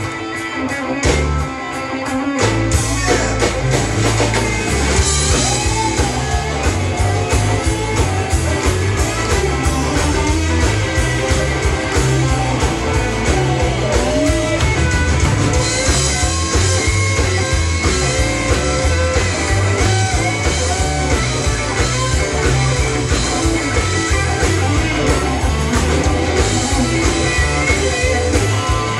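Rock band playing an instrumental break: a lead guitar line with bending notes over a steady bass and drum beat. The band drops out briefly near the start, then comes back in.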